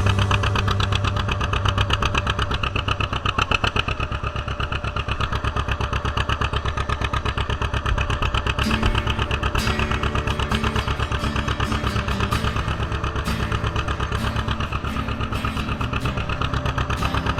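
Vintage farm tractor engine running with a steady, evenly pulsing exhaust beat.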